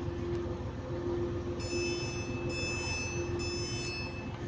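Class 185 diesel multiple unit standing at the platform with its engine idling: a steady low hum with a held tone. From about one and a half seconds in, a high-pitched whine joins it; the whine breaks twice and stops just before the end.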